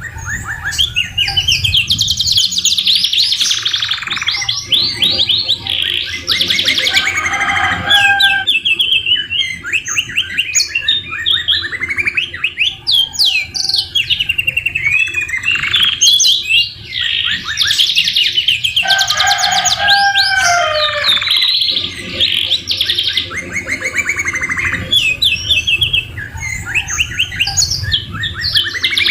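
Domestic canary singing an almost unbroken song of fast trills and rolls mixed with lower whistled notes, its song filled with phrases copied from the white-rumped shama.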